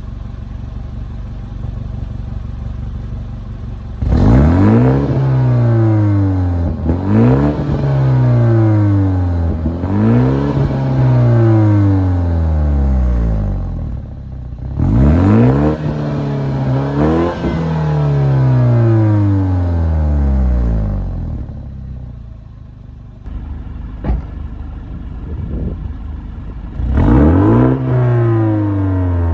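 BMW 230i (G42) turbocharged four-cylinder running through an M Performance exhaust, idling and being revved several times in quick sets. Each rev climbs sharply and falls back more slowly, with steady idle between the sets.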